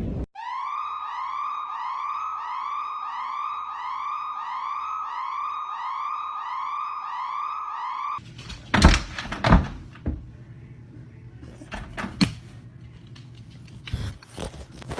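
A high, warbling electronic-sounding tone that swells and dips about twice a second for about eight seconds, then stops abruptly. Several sharp knocks and thumps follow.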